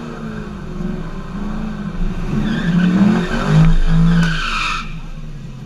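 Drag car's engine running just after a pass, its pitch rising and falling. A higher hissing, screeching sound comes in between about two and five seconds in.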